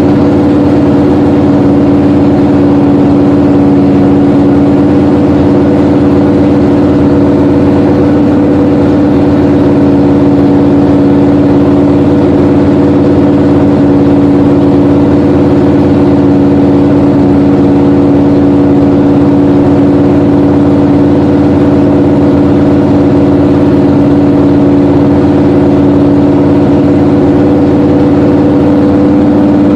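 Loud, steady running of the 1966 Plymouth Valiant V100's freshly rebuilt engine held at one constant speed during its break-in run.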